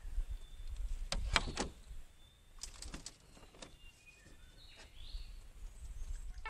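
Birds chirping, with short calls and a few rising sweeps. Over them come several sharp knocks and clicks, three close together about a second in and a few more near the middle.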